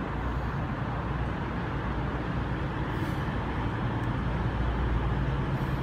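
Class 221 Super Voyager diesel-electric train running its underfloor diesel engines while standing at the platform, a steady low hum that grows slightly louder toward the end. Two short faint hisses come about three seconds in and near the end.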